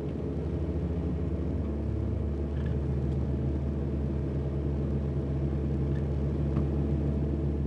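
Car engine running steadily as the car drives, a deep even hum heard from inside the cabin, starting abruptly.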